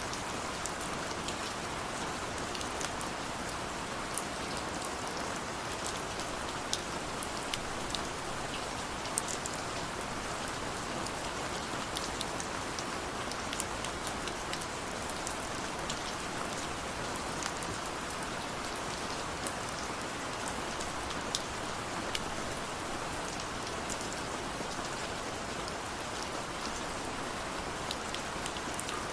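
Steady rain falling, an even hiss with scattered sharp drips and drop ticks.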